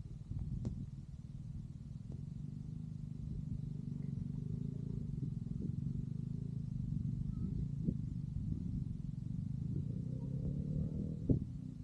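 Motorcycle engine running steadily with a low, even hum, with scattered light knocks; its pitch rises a little near the end.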